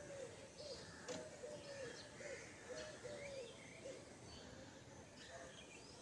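A bird calling in the background: a series of short, even hooting notes about two a second that die away about four seconds in, over faint chirping of small birds.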